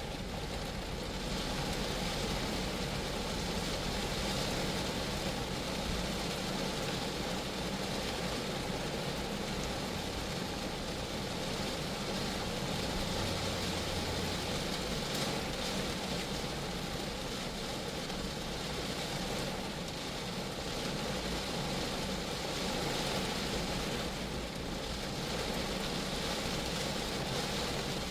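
Steady rain falling on a Geo Metro, an even hiss of drops on the car's body, with a low hum beneath.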